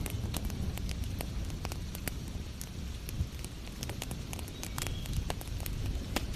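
Wood fire crackling, with frequent irregular sharp pops and snaps over a steady low rumble and a hiss of rain.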